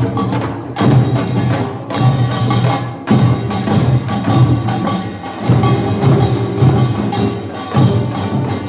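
Korean nongak farmers' band percussion playing: gongs and drums struck in a continuous driving rhythm, with ringing metal tones over the beats.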